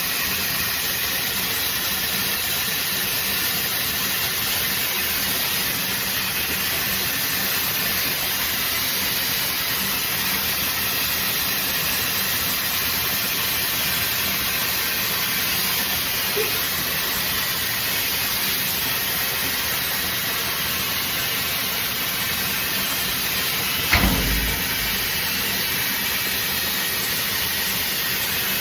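Shark FlexStyle hair dryer running steadily, an even airflow hiss. A single low thump comes about 24 seconds in.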